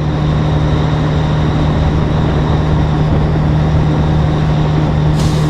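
Heavy truck diesel engine, heard from inside the cab, pulling steadily under load after getting louder at the start, with a short hiss near the end.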